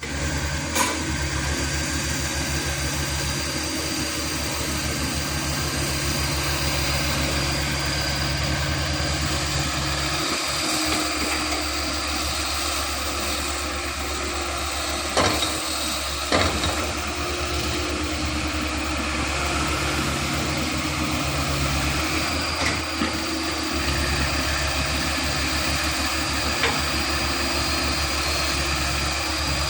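Komatsu PC100-6 hydraulic excavator's diesel engine running steadily at a low, even speed, with a few sharp knocks: one near the start and two about halfway through.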